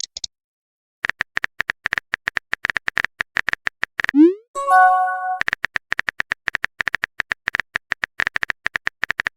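Chat-style sound effects: a long run of rapid, even clicking blips like on-screen typing, then a short rising pop about four seconds in, followed by a brief chord of steady chime tones. The clicking then starts again and runs on near the end.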